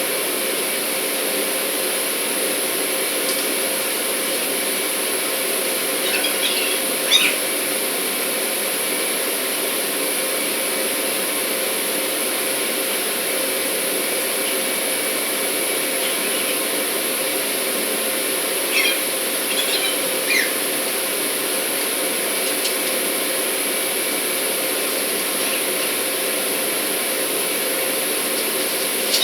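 Steady drone of industrial machinery running, with a few short high squeaks about a quarter of the way in and again past the middle.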